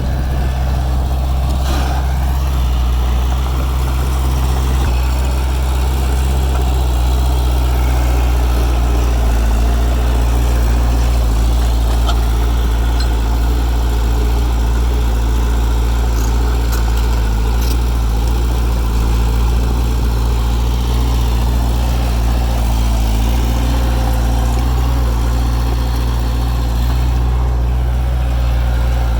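Heavy diesel engine of earthmoving machinery running steadily, with a deep, even low hum and a few faint clicks.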